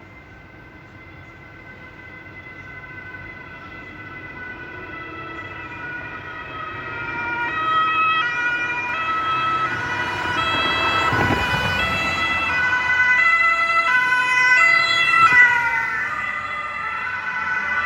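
German two-tone police siren (Martinshorn) alternating between two pitches, growing louder as the patrol car approaches. It passes about eleven seconds in with a rush of engine and tyre noise, and the pitch drops as the car draws away.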